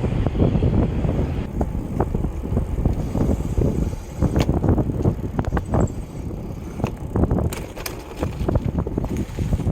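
Riding bicycle heard from an on-board microphone: wind rumbling on the microphone over the rolling bike, with many short knocks and rattles.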